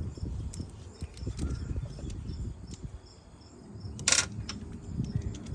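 Rustling and small clicks of hands working a part loose in a car's engine bay, close to the microphone, with one sharp, short noise about four seconds in. Crickets chirp faintly throughout.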